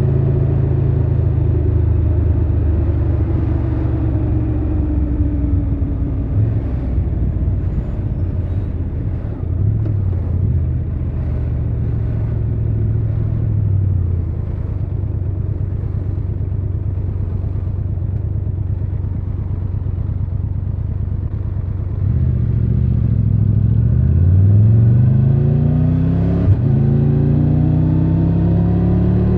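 Triumph Tiger 1200 Rally Pro's three-cylinder engine on the move. Its pitch falls and then holds low and steady for much of the time, then rises as the bike accelerates near the end, with a short break for a gear change before it climbs again.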